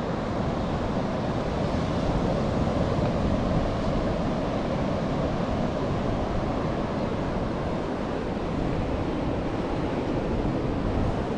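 Steady rushing of wind and ocean surf, with wind buffeting the microphone.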